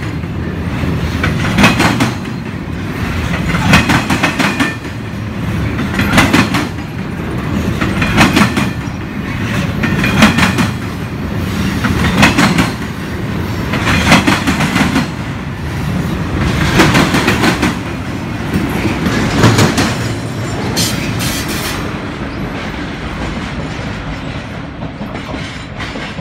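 Double-stack intermodal container train rolling past at speed, its wheels clattering over rail joints in a burst about every two seconds as each car's trucks go by. The clatter fades away in the last few seconds as the end of the train moves off.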